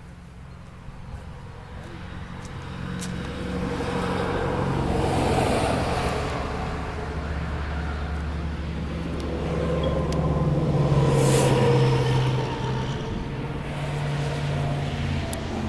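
Motor vehicle running with engine hum and road noise, swelling louder twice, about five and about eleven seconds in.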